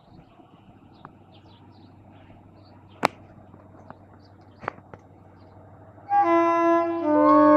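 A faint steady low hum with a few sharp clicks, then about six seconds in a FEVE locomotive's multi-tone horn sounds loudly, dropping to a lower chord about a second later.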